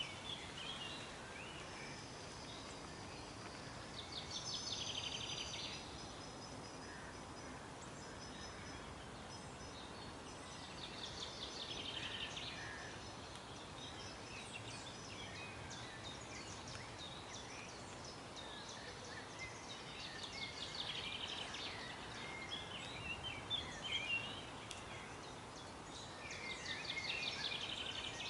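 Songbirds singing outdoors: a short rapid trill repeated about every seven to eight seconds, with thin high whistles and scattered chirps, over a steady background hiss.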